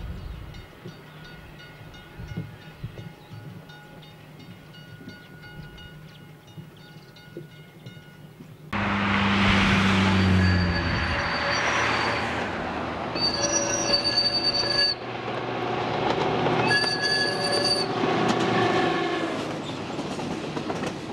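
Metre-gauge diesel passenger train: first a faint, even rumble of a train passing at a distance, then after a sudden change about 9 s in, loud running noise heard from aboard the moving train with a low engine drone. Partway through, two long shrill tones sound, each about a second and a half, over the rail noise.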